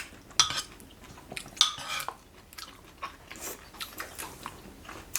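Spoons clinking and scraping against bowls, with a few sharp clicks scattered through, while people eat stew.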